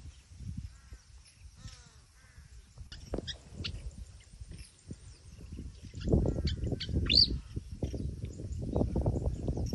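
Small birds chirping, with one louder sweeping call about seven seconds in. Underneath runs an uneven low rumble that gets louder in the second half.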